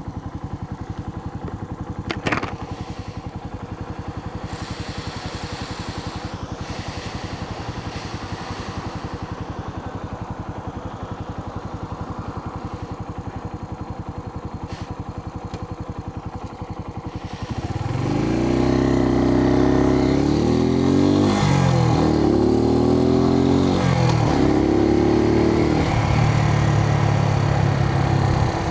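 Suzuki TU250X's single-cylinder engine idling steadily, heard from inside the helmet, then pulling away about two-thirds of the way in: the engine note climbs and drops several times as the bike accelerates up through the gears.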